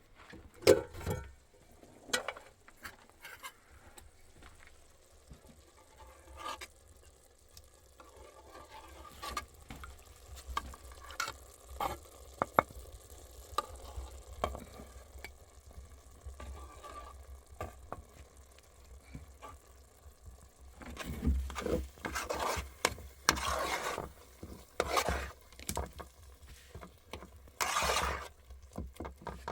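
Scattered light clicks and knocks of things being handled, then, about two-thirds of the way in, several louder bursts of scraping or rustling noise.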